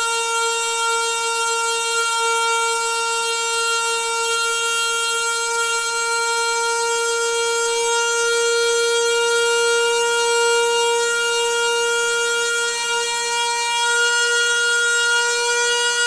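Noisy household water pipe singing: a steady pitched hum with overtones that holds nearly one pitch throughout.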